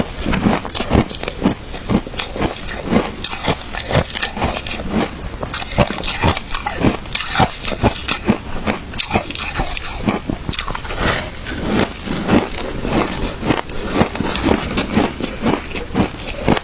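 Close-miked chewing and crunching of matcha-flavoured shaved ice, a fast, irregular run of crisp crunches several times a second.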